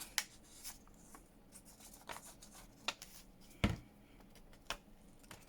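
Paper and card pieces being handled and pressed down to stick them in place: scattered light taps and rustles, with one louder thump about two-thirds of the way through.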